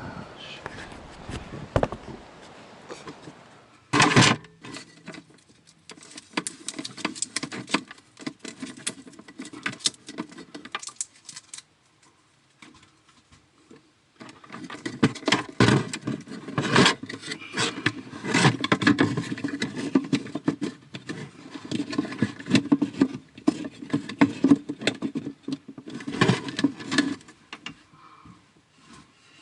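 Irregular clattering, clicking and rustling from hands-on work, with one sharp knock about four seconds in and a short lull partway through.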